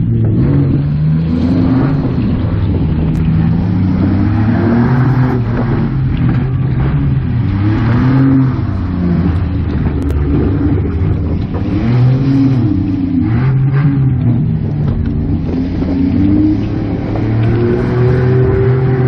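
Demolition-derby minivan's engine revving up and easing off repeatedly, heard from inside the stripped-out cabin.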